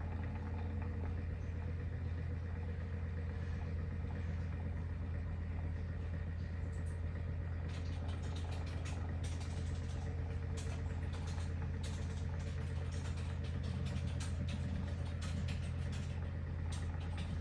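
A steady low hum, like a running motor or machine, with brief clicks scattered through the second half.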